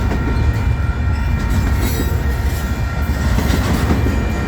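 A freight train's cars rolling past close by: a steady, loud, low rumble of wheels on rail.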